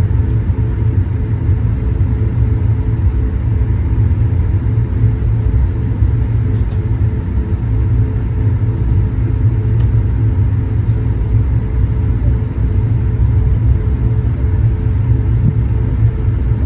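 Steady low rumble of an Airbus A220-100 airliner as heard inside the cabin: its Pratt & Whitney PW1500G geared turbofans and the airflow make an unchanging drone with a few steady hum tones over it.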